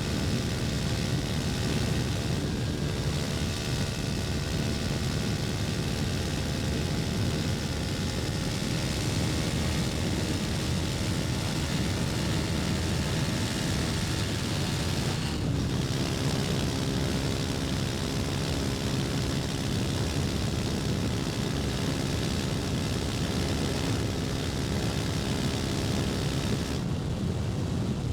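KTM Duke 250's single-cylinder four-stroke engine running steadily under way, heard from on board, with a short break in the sound about halfway through and again near the end.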